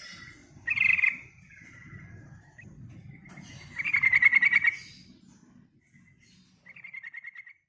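Yellow-vented bulbul calling in quick chattering phrases. The loudest and longest phrase comes about four seconds in, a shorter one near one second, and a quick run of notes near the end.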